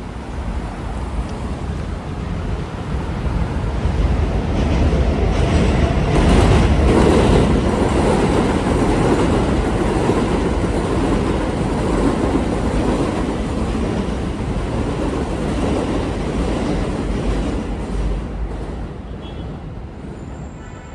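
Elevated subway train passing along its steel structure, its rumble and wheel noise building to a peak a few seconds in, then fading away.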